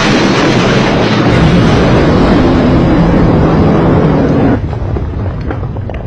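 Loud, sustained jet-like roar that cuts off sharply about four and a half seconds in, leaving a fading rumble with scattered crackles.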